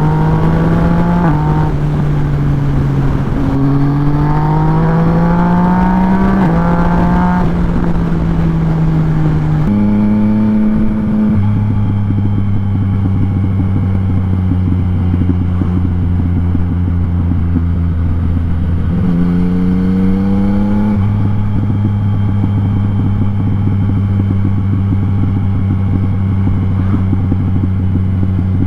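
Yamaha MT-09's three-cylinder engine running through an Akrapovic exhaust on the move. The revs rise and fall over the first ten seconds, then it settles to a steady cruise, with one short rise in revs about twenty seconds in.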